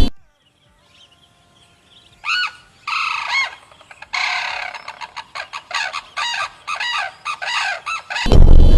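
A bird calling. A few loud arched, harsh calls are followed by a fast run of shorter arched notes, several a second. Music cuts back in near the end.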